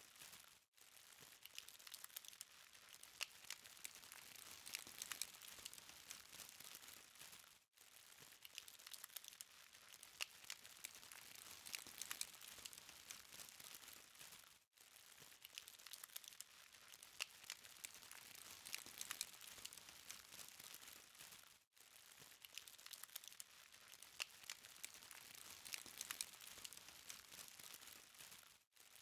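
Faint charcoal fire crackling: a steady soft hiss with many small, sharp ticks. The sound drops out for an instant about every seven seconds.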